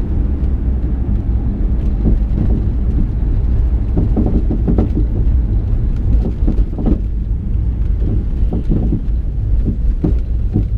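A 2012 Ford Mustang GT driving over bumps: steady road and drivetrain rumble with irregular knocks and bangs from the rear suspension, several in quick clusters. The knocking comes from rear sway bar bushings that the owner suspects are worn out.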